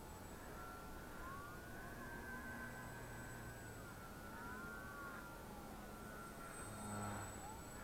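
Motor and propeller of a small foam Edge 540 3D radio-controlled aerobatic plane whining faintly, the pitch gliding up and down several times as it flies.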